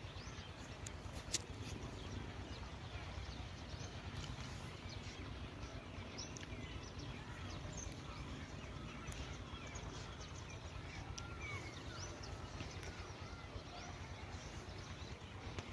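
Rural outdoor ambience: scattered faint bird chirps over a steady low background rumble, with one small click about a second in.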